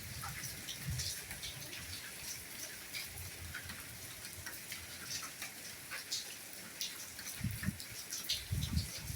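Steady rainfall, with many individual drops ticking close by over a soft hiss. A few short, low rumbles come near the end.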